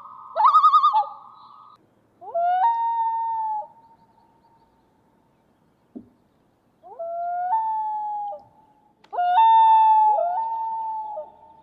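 Common loon calling. A fast quavering trill comes first, then three long wails, each sliding upward and breaking up to a higher held note.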